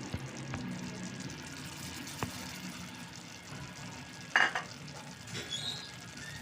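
A utensil stirring in a pan over heat, with a faint sizzle and occasional light clicks. About four and a half seconds in there is a brief, sharp clatter, the loudest sound.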